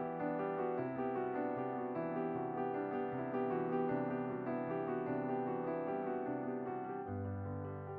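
Background piano music, gentle and slow, with sustained chords that change about once a second.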